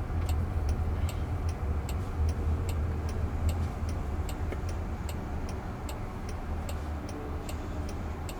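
Car turn-signal indicator ticking steadily inside the cabin, about two ticks a second, over the low rumble of the moving car.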